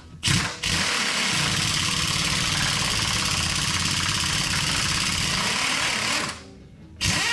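Pneumatic impact wrench running on a 5/8 nut and bolt. A short blip comes first, then one steady hammering run of about five and a half seconds. Near the end a last short burst spins down with a falling whine.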